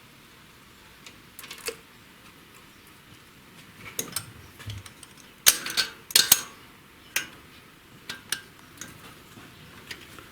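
Scattered metallic clicks and taps of hand tools working on the valve gear of a VAZ-2109 cylinder head during valve stem seal replacement, with a few louder knocks just past the middle.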